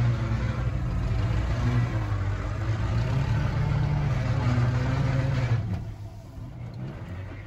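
Land Rover 4x4's engine running hard with a steady low drone and rattling noise, then dropping sharply in level about five and a half seconds in as it eases off.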